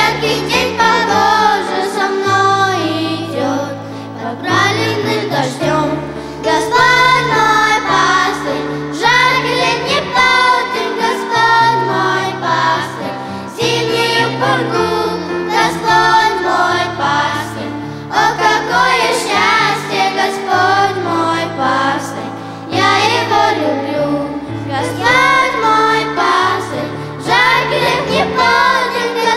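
Russian-language Christian worship song: voices singing together over instrumental accompaniment with a stepping bass line.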